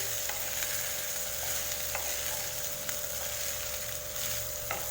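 Cooked rice being stirred in a hot kadai with garlic, onion and peanuts in oil: a steady sizzle with a few sharp taps and scrapes of the spatula against the pan. A steady hum runs underneath.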